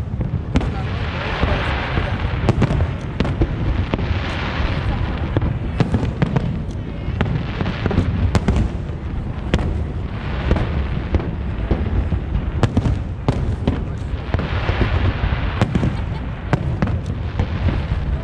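Aerial fireworks display going off continuously: many sharp bangs and pops, with recurring swells of crackling hiss every few seconds, over the murmur of a crowd.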